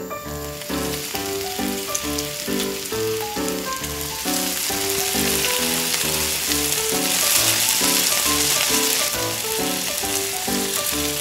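Hot oil sizzling as small pieces of food fry in a tiny metal pan, loudest through the middle, over background music of short plucked notes.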